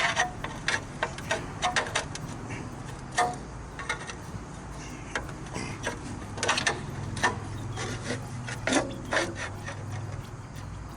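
Irregular knocks, clicks and scraping from hand work on building materials, over a low steady hum.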